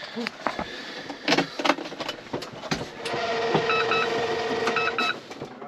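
Steyr tractor being readied to start: a few clicks and knocks, then from about three seconds in a steady electric whine lasting about two seconds, with short repeating dashboard warning beeps about once a second.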